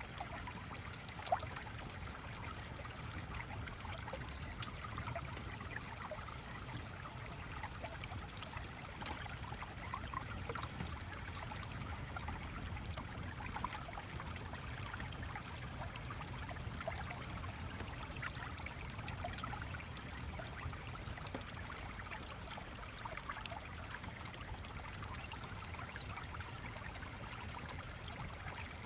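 Small stream flowing and trickling steadily, with many small bubbling blips. A single sharp click about a second in.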